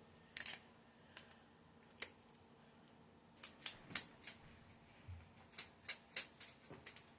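A dozen or so short, sharp clicks at irregular intervals, several coming in quick runs of three or four.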